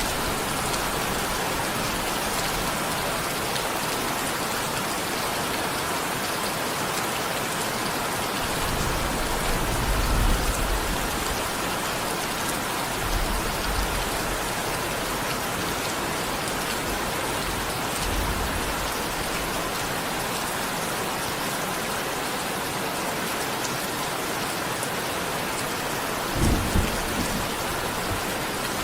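Steady heavy rain falling, with low rolls of thunder rumbling a little before halfway and again shortly after, and a brief low thump near the end.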